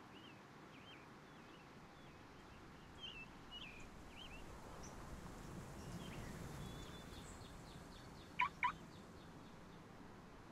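Birds calling: a run of faint short chirps, then two sharp, loud calls in quick succession a little past the middle.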